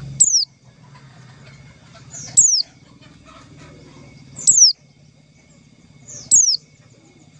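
White-eye (pleci) call: a sharp, high note sliding downward, given four times about two seconds apart, each with a softer short note just before it. A faint low buzzing hum runs underneath.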